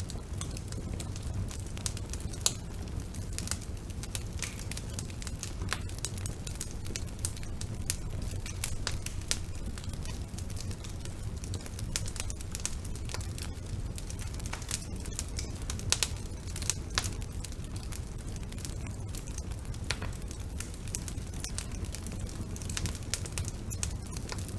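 Wood fire burning in a fireplace: irregular crackles and pops over a low, steady rumble, with a few louder pops now and then.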